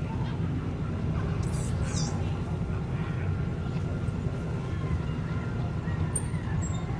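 Layered sci-fi marketplace ambience: a steady low rumble under faint murmured voices, with a brief high chirping sound a couple of seconds in and a short high whistle near the end.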